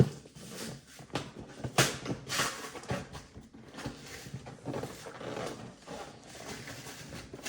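Cardboard box and packaging being handled: irregular knocks, clicks and rustling, with a sharp knock right at the start and another about two seconds in.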